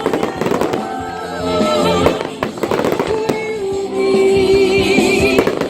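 Fireworks crackling and banging in rapid strings, thickest in the first couple of seconds, over music playing along with the show.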